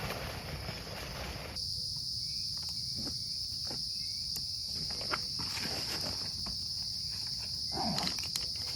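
Night insect chorus, a steady high-pitched chirring that starts abruptly about a second and a half in, after a rough rustling noise. A few faint clicks and a brief rustle sound over it near the end.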